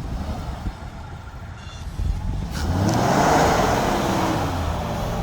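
An off-road vehicle's engine revving. Its pitch climbs from about two seconds in and is loudest just past the middle, then eases slightly lower toward the end.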